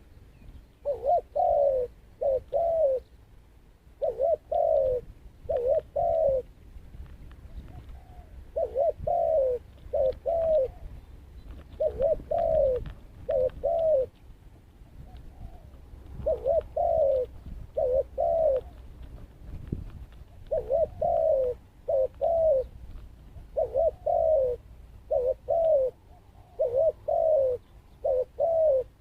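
Zebra dove cooing: quick series of short, clipped coo notes, each dipping in pitch, given in clusters of two to four with short pauses between, repeated throughout.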